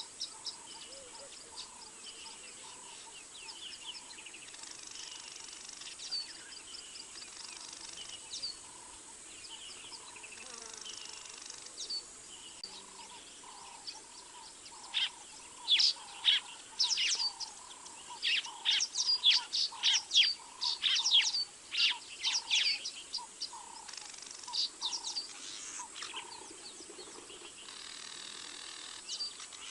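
Wild birds calling: many sharp, high chirps, densest and loudest in a burst about halfway through, over a lower note repeated steadily throughout.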